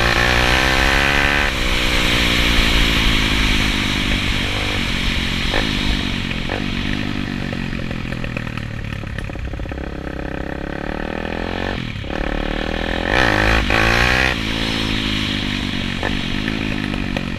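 190cc Daytona pit bike's single-cylinder four-stroke engine revving hard, its pitch climbing and dropping back over and over as it accelerates and changes gear, loudest about thirteen seconds in.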